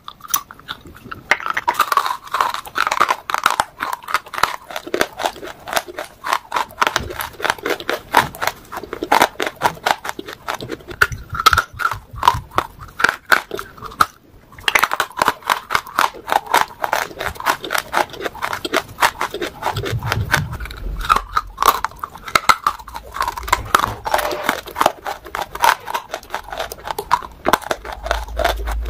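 A person biting and chewing hard chunks of grey shale: a dense, steady run of sharp crunching cracks and crumbles as the pieces break between the teeth, with a brief pause about halfway.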